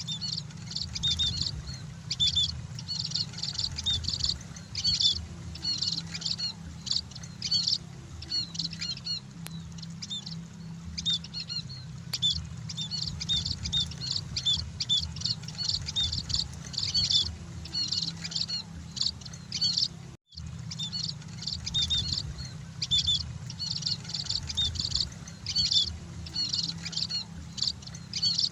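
Munias (emprit) chirping: quick, high, short notes in dense continuous series, over a steady low hum. The sound cuts out briefly about twenty seconds in.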